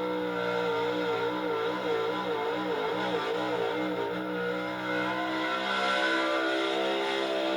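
Altered gas pulling truck's engine running hard at high revs, its pitch wavering up and down for a few seconds, then holding steady.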